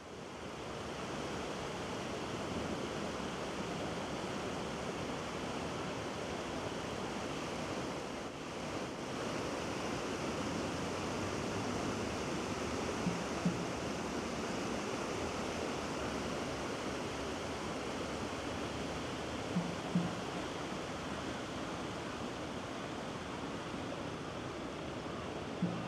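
Steady rushing of the Kamo River's flowing water, fading in at the start. Short soft knocks come in pairs three times in the second half.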